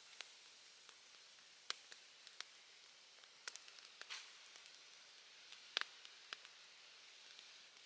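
Campfire crackling: scattered sharp pops and snaps a second or so apart, the loudest about six seconds in, over a faint steady hiss.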